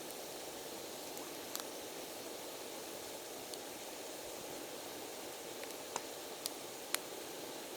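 Wood campfire burning with a steady hiss and crackle, and a few sharp pops from the burning wood, three of them close together near the end.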